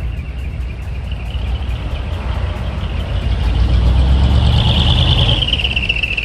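Large diesel truck driving past: its engine rumble builds to a peak a little past the middle, then fades as it pulls away.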